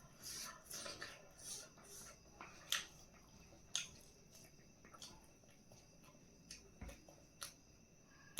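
Quiet eating sounds: soft chewing with scattered short mouth clicks and smacks, busiest in the first couple of seconds and sparser after.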